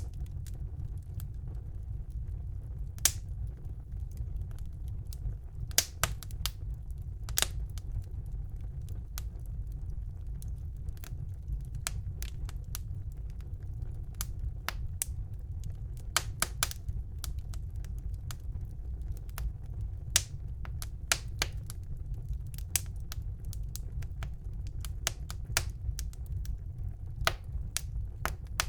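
Wood fire burning in a fireplace: irregular crackles and sharp pops, some in quick clusters, over a steady low rumble of the flames.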